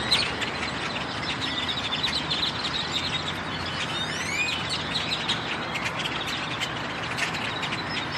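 A large flock of birds calling all at once: a dense, continuous chatter of overlapping chirps and whistles, with one rising whistle about four seconds in.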